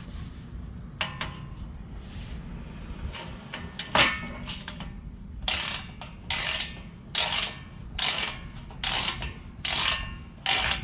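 A 3/8-inch torque wrench ratcheting a 12 mm skid plate bolt, with a few metal clicks and a clank about four seconds in, then a steady run of short ratcheting strokes about one a second from halfway on.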